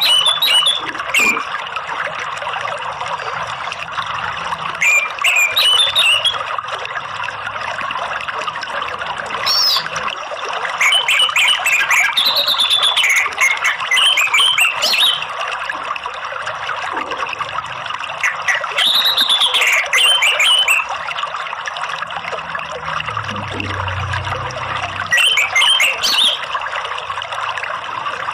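Orange-headed thrush (anis merah) singing short, varied whistled phrases every few seconds over a steady trickle of running water.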